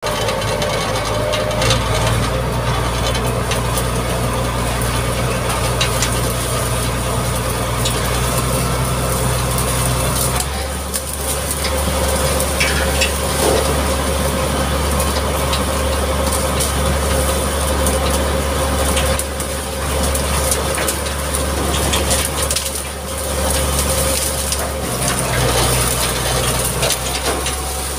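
Mitsubishi MG330 motor grader's diesel engine running steadily under work, its note changing about ten seconds in and again near the end, with crunching and crackling as the blade works through the overgrown road.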